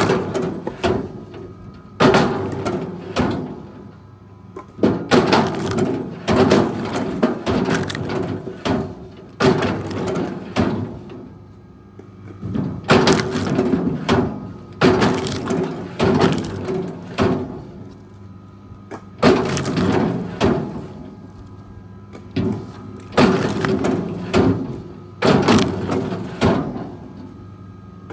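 Wood cracking and splintering in repeated bursts every one to three seconds, over a steady engine hum.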